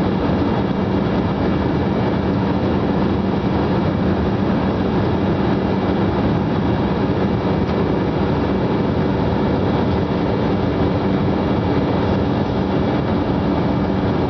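Steady cabin noise of a jet airliner in flight: engine and airflow rush with a low, even hum and no change in level.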